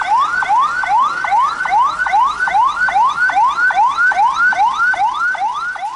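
Electronic siren wailing in quick, even rising sweeps, a little over two a second, each snapping back down before the next.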